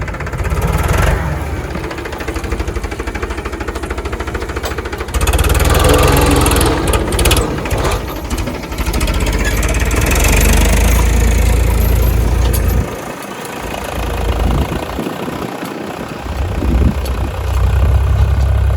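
Powertrac 2WD tractor's diesel engine running as it works the field, its level rising about a quarter of the way in, dropping back briefly about two-thirds through, then rising again near the end.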